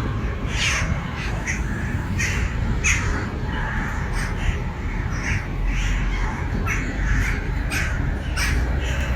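A large flock of birds calling, with many short calls overlapping continuously over a steady low rumble.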